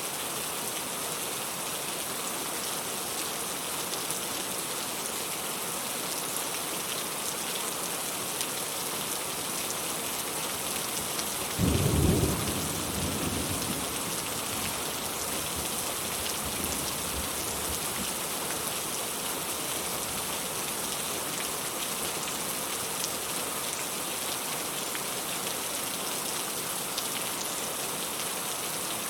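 Steady rain falling, with a single clap of thunder about twelve seconds in that dies away over about two seconds.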